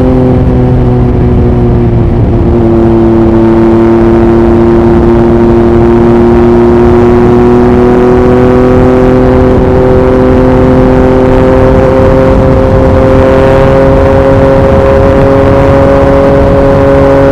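2021 Yamaha MT-09's 890 cc inline-three engine with an Akrapovic racing exhaust, pulling steadily at highway speed, its pitch rising slowly as the bike gently accelerates. Wind noise on the microphone underneath.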